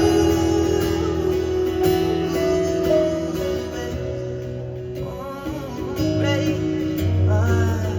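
Live acoustic guitar music with a voice singing over it. The sung phrases come in again later on.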